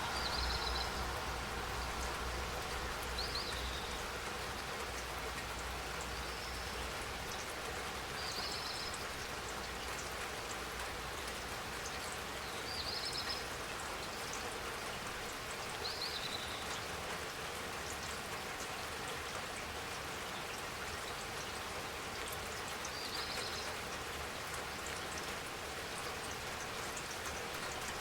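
Steady rainfall, an even hiss of drops, with a short high chirp recurring every few seconds.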